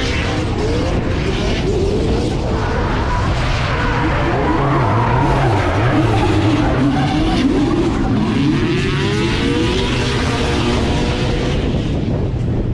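Drift car engines revving hard, the pitch rising and falling over and over as the cars slide, over a steady rush of tyre noise.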